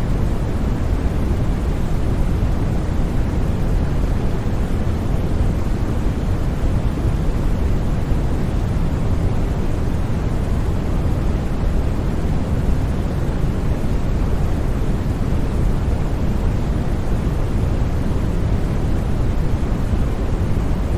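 Steady white noise for sleep: an even, unbroken hiss with most of its weight in the low end and no changes or sudden sounds.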